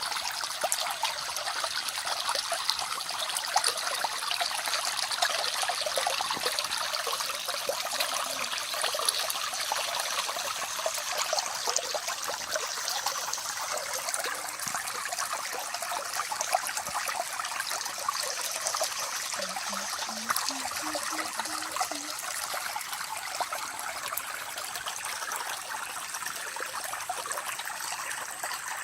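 Small Amazonian forest stream running steadily, a constant trickling and splashing of flowing water.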